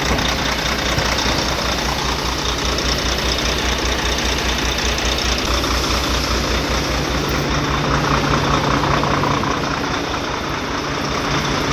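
Volvo FH truck's diesel engine idling with a steady low pulsing rumble and a misfire, which the mechanic puts down to a dead injector along with the white smoke.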